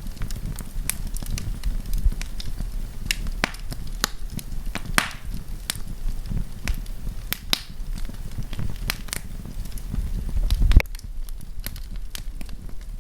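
Wood campfire crackling, with irregular sharp snaps and pops over a low rumble. A louder pop comes near the end, after which the rumble drops away.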